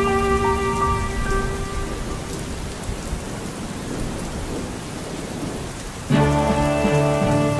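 Steady rain with low rolling thunder. Sustained music notes die away in the first two seconds, and a new piece of music starts abruptly about six seconds in.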